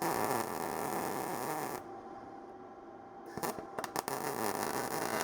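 Arccaptain MIG205MP MIG welder laying two short tack welds on thin sheet steel, each a burst of crackling arc sizzle, the second with sharp pops. The welder is set too hot for the thin metal.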